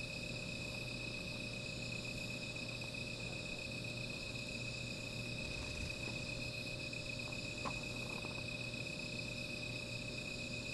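Crickets calling in a steady, unbroken high trill, with one faint click about two-thirds of the way through.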